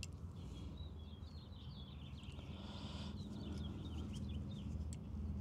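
Birds chirping, a run of short high calls, over a low steady rumble of background noise, with a faint click near the end.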